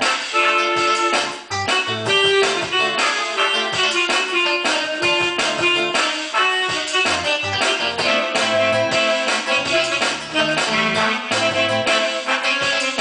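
Instrumental music led by a guitar playing a fast stream of quick notes over a pulsing bass line.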